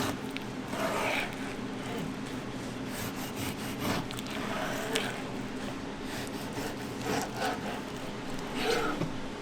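Intermittent rubbing and scraping strokes, each under a second, over a steady low hum.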